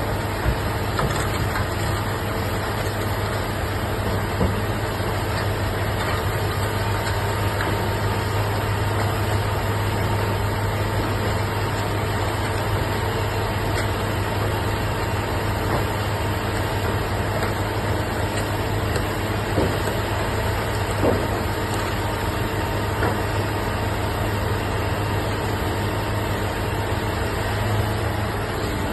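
Idromec shear baler's power unit running steadily, a constant low hum with no change in load.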